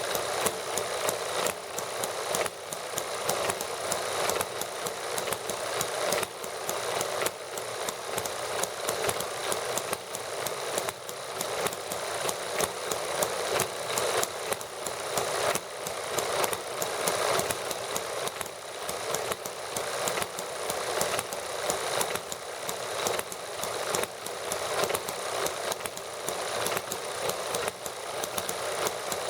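Several small model gasoline engines running together as they warm up: a steady, fast clatter of firing strokes with no pauses.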